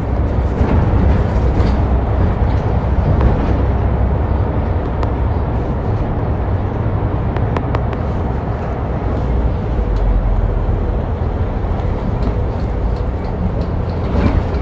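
Route bus in motion, heard from inside the cabin: steady engine and road noise with a strong low rumble, and a few faint clicks or rattles.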